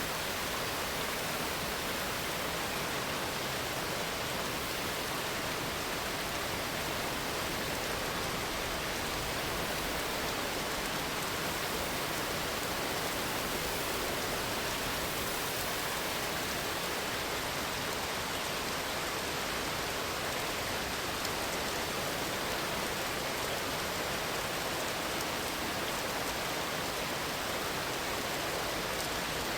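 Steady rain falling, an even hiss with no thunderclaps or other sudden sounds.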